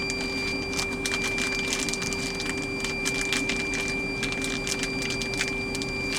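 Plastic zip-top bag crinkling in rapid, irregular crackles as it is squeezed to press the air out around frozen chicken pieces, over a steady electrical hum.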